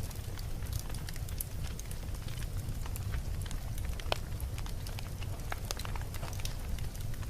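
Campfire burning, the wood crackling and popping in irregular sharp snaps, one louder pop about four seconds in, over a steady low rumble of flame.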